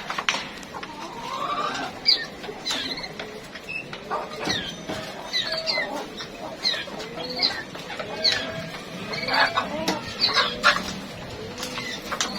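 Backyard chickens and birds giving a rapid run of short chirps and squeaky calls, some sliding down and others sliding up in pitch, with a few sharp clicks among them.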